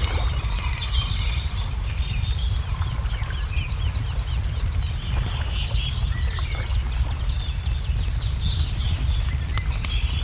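Wood fire crackling with scattered sharp pops, while small birds chirp and trill over a low, steady rumble.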